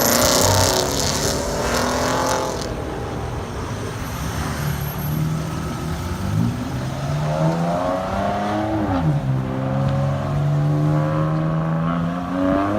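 Sports car engine under throttle. A loud exhaust rush comes in the first two seconds, then the engine note climbs about six seconds in, drops sharply near nine seconds, holds steady, and climbs again at the end as it revs.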